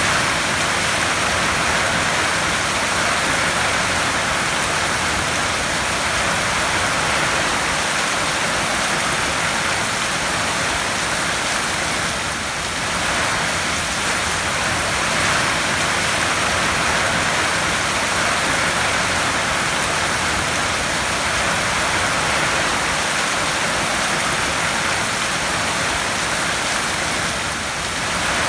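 Heavy rain falling steadily on a tin roof, a dense, even hiss with slight dips in loudness about twelve seconds in and near the end.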